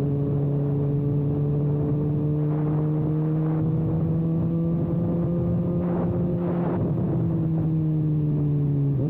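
Kawasaki ZX-6R inline-four engine running at a steady cruise through an exhaust with no silencer can. The note climbs slightly over the first several seconds, then eases back a little near the end.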